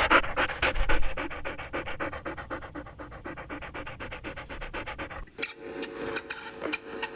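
Dog panting rapidly, a fast even rhythm of about six breaths a second. About five seconds in, it gives way to a steady hum with sharp clicks.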